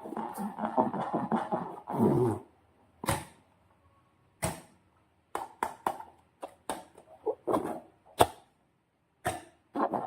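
Slime squelching and crackling as it is squeezed, then a series of separate sharp clicks and snaps, the loudest a little past eight seconds in.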